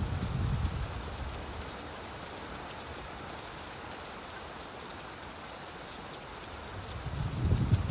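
Steady rainfall, with a low rumble of thunder dying away in the first second and another rumble building near the end.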